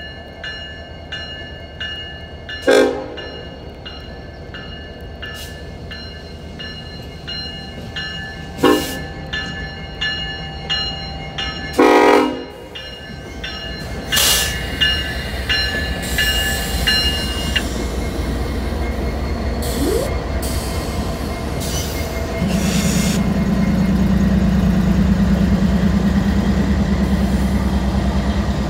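Norfolk Southern freight diesel locomotives passing a grade crossing. A crossing signal bell rings about twice a second through the first half, and a horn gives three short blasts. Then the diesel engine drone grows and turns loud near the end as the locomotives pass close by.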